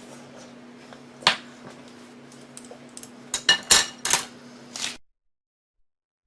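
Utensils clinking against dishes: one sharp clink, then a quick cluster of clinks and knocks, over a steady low hum. The sound cuts off suddenly near the end.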